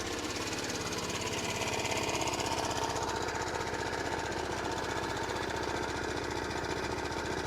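Yamaha NMAX scooter's single-cylinder four-stroke engine idling steadily with a rapid, even pulse and a rattle from somewhere on the engine that is being tracked down.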